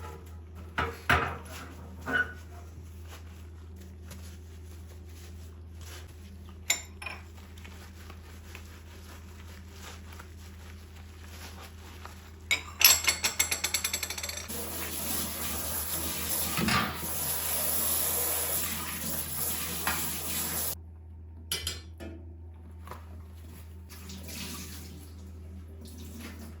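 Dishes and cutlery clinking around a kitchen sink. About halfway through comes a quick rattle of clicks, then the tap runs for about six seconds and is shut off abruptly, followed by a few more clinks.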